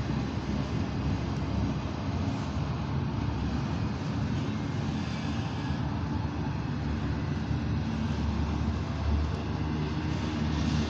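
Double-stack intermodal freight train rolling past, a steady rumble of its wheels and container cars on the rails.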